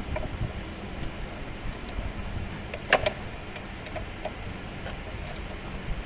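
Scattered light metallic clicks and taps of hand tools working on a scooter's front fork, with one sharper clack about three seconds in, over a steady low hum.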